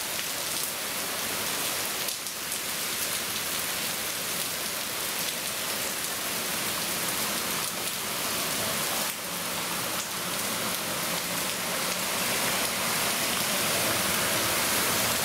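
Heavy rain pouring down steadily on a waterlogged lawn and street, a dense even hiss that grows a little louder near the end.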